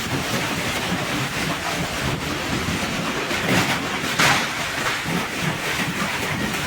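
Heavy rain and hail pelting down in strong wind: a dense, steady rattle, with a brief louder surge about four seconds in.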